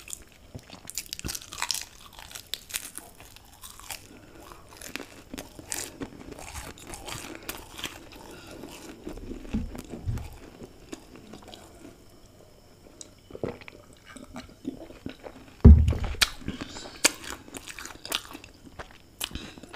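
Close-miked chewing and crunching of crisp fried samosa pastry, with scattered crackly crunches. A loud low thump about three-quarters of the way through.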